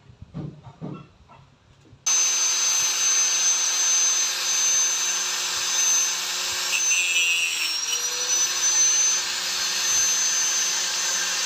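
A motor-driven machine running steadily, with a high whine over a low hum. It starts abruptly about two seconds in, after a couple of seconds of faint sounds.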